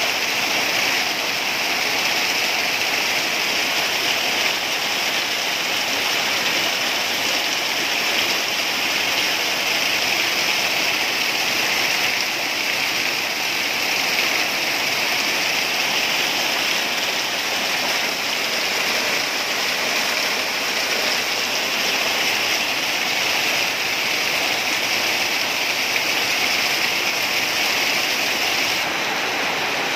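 Heavy rain with water pouring off a roof edge in a steady sheet, an even, unbroken rush of falling water.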